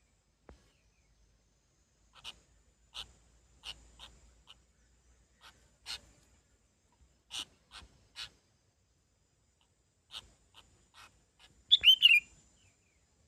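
A small songbird giving a dozen or so short, sharp chirp notes at irregular intervals. About 12 s in it gives a louder, quick burst of calls falling in pitch.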